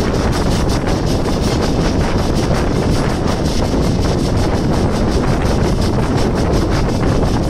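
Passenger express train running along the line, a loud steady rush of wheel and rail noise with wind buffeting the microphone.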